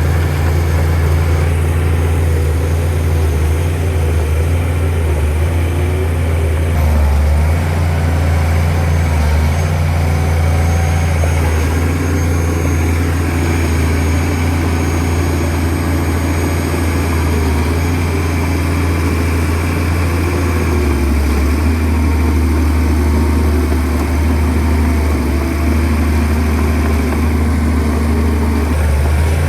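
Shantui DH17C2 bulldozer's diesel engine running steadily as a low drone, with a higher tone joining partway through and dropping out shortly before the end.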